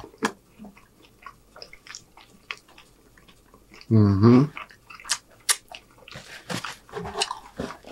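Close-miked chewing of a mouthful of chicken and noodles: wet mouth clicks and smacks throughout, with a short voiced hum about four seconds in. Paper napkin rustling near the end.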